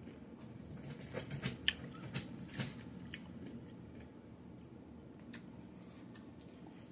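Close-miked mouth sounds of a person biting and chewing crunchy food, a run of wet crunches and clicks over the first three seconds, then quieter, sparser chewing.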